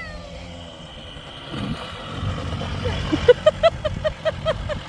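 A small motorbike engine running, quieter at first and louder from about a second and a half in. Near the end comes a fast run of short, high voice sounds like laughter.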